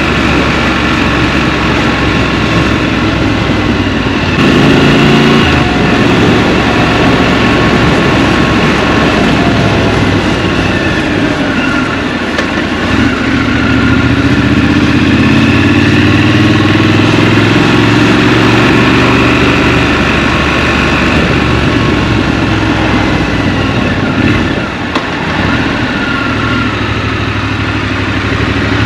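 Scrambler motorcycle engine heard from the rider's seat, running steadily at low revs, then revving briefly about five seconds in. Later it climbs in pitch over several seconds as the bike accelerates, drops back, and starts rising again near the end.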